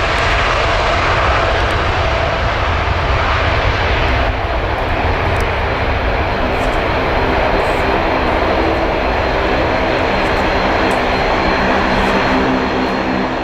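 Boeing 747-8F freighter's four GEnx turbofan engines at high thrust on departure: a loud, steady jet noise with a deep rumble underneath.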